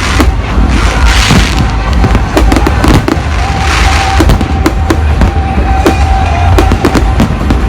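Fireworks going off in quick succession: many sharp bangs and crackles over a heavy low rumble, with hissing swells about a second in and again near four seconds.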